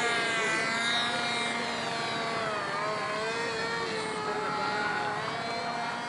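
Radio-controlled model airplane's motor running in flight, a steady pitched drone that wavers a little in pitch.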